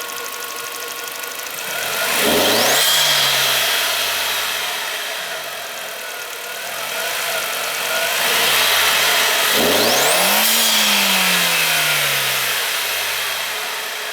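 Skoda Octavia vRS turbocharged four-cylinder petrol engine with a Milltek aftermarket exhaust, revved twice from idle. Each time the pitch rises quickly and then falls slowly back to idle, the second rev held longer.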